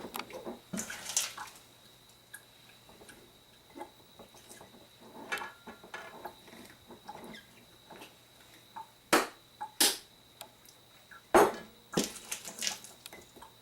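Cucumber chips being packed by hand into a pickling container: scattered soft taps and clicks, with a few sharper knocks in the second half.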